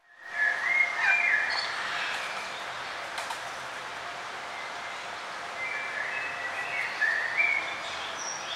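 Songbirds chirping: short whistled notes that slide up and down, a cluster starting about half a second in and another around six to seven seconds in, over a steady background hiss.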